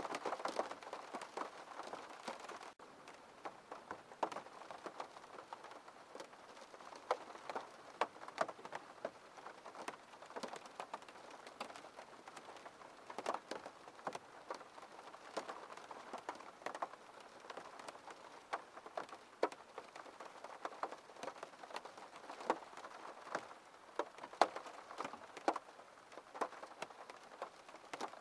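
Rain falling on a window pane: a steady patter with single drops tapping sharply at irregular moments.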